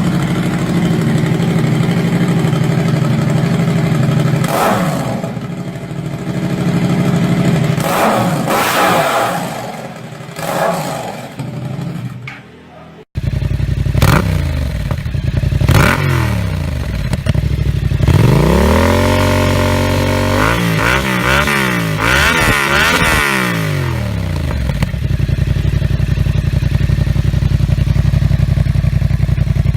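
Yamaha MT-07 parallel-twin engines with aftermarket exhausts, idling and revved in short blips. About 13 seconds in a cut switches to a second bike, which is revved several times in quick succession around the middle, with pitch rising and falling, before settling back to a steady idle.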